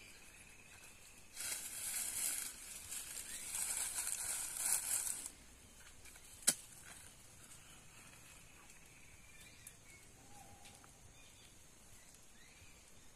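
Dry straw rustling as it is handled for about four seconds, then a single sharp click, over faint outdoor background hiss.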